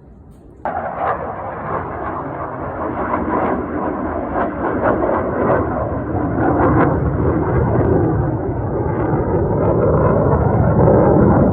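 Aircraft noise that starts abruptly about a second in and grows steadily louder over the following seconds.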